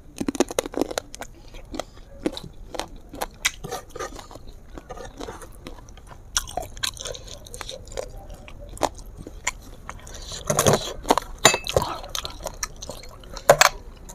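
Close-miked mouth sounds of a person biting and chewing chicken feet in curry, a dense run of irregular sharp clicks, with a louder click near the end.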